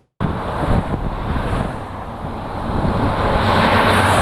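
Road traffic noise: vehicles passing with a steady rumble and tyre hiss, growing louder about three seconds in as a vehicle comes closer.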